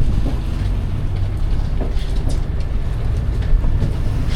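Cruise boat's engines droning steadily, with a few faint knocks over the hum.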